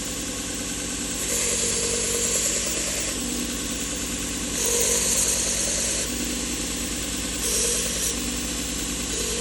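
Small 1x30 belt grinder's motor running steadily while a knife blade is pressed against its slack 200-grit abrasive belt, giving three grinding passes heard as a louder hiss laid over the motor hum.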